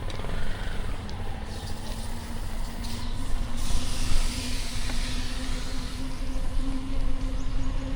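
City street traffic heard from a bicycle: motor vehicles running around, with a steady engine hum that grows louder from about halfway and a swell of hiss about four seconds in.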